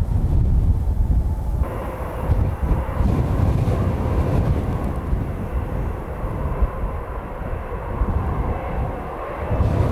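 Jet airliner engines running steadily, heavily buffeted by strong wind on the microphone, which gives a constant low rumble. The engine noise changes abruptly a little under two seconds in.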